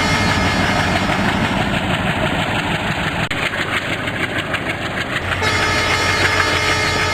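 Train running on the track: a steady, loud rumble of wheels on rail.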